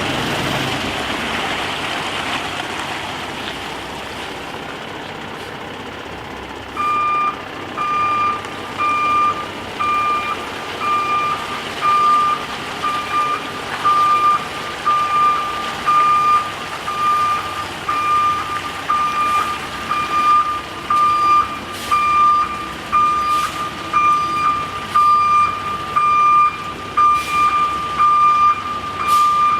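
Truck backup alarm beeping about once a second on a single tone, starting about seven seconds in, over the steady running of the truck.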